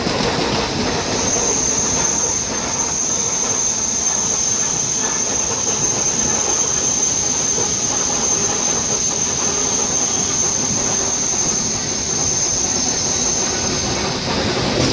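ER9T electric multiple unit running at speed, heard from aboard: a steady rumble of wheels on rail. About a second in a thin, steady, high-pitched squeal sets in, and it stops shortly before the end.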